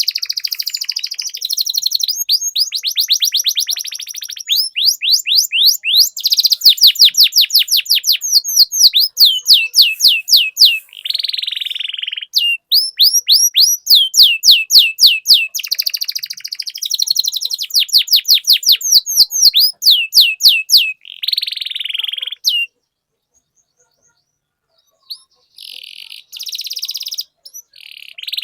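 Domestic canary singing long rolling trills: fast runs of rapidly repeated high notes, one run after another. The song breaks off for about two and a half seconds near the end, then starts again.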